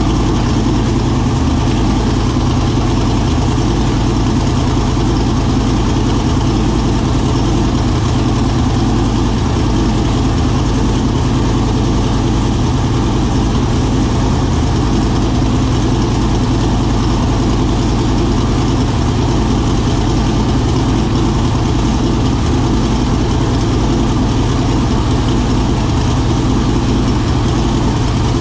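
Twin-turbocharged V8 in a Mercury Zephyr idling steadily and loudly, warming up after its first start. There are no revs.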